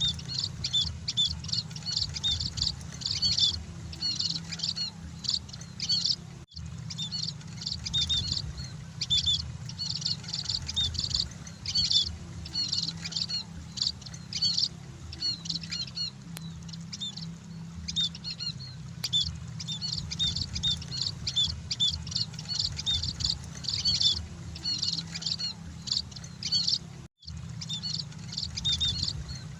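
A flock of munias (emprit) chirping: many short, high chirps in quick, unbroken succession over a steady low hum. The sound cuts out for a split second twice, about six seconds in and near the end.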